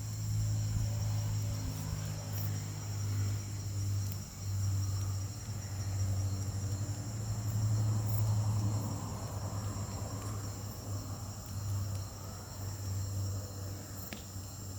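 Insects, crickets by their sound, chirring steadily in a high pitch, over a loud low hum that swells and fades.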